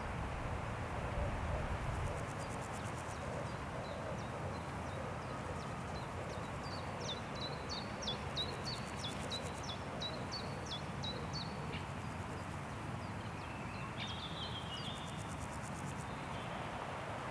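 Wind rushing steadily through forest trees, gustier for the first couple of seconds. Over it a songbird sings a run of short, quick down-slurred notes that speeds up, a different bird calls briefly near the end, and faint high insect buzzing comes and goes.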